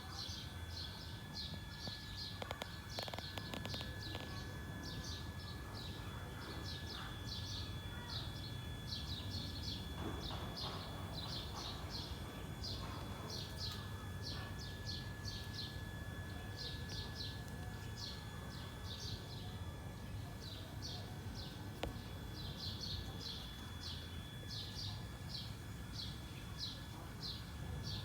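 Small birds chirping over and over in quick high clusters, against a steady low rumble.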